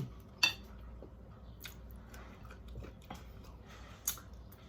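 Close-miked mouth sounds of someone eating chicken wings and white rice: quiet chewing with scattered wet clicks and smacks, the sharpest about half a second in.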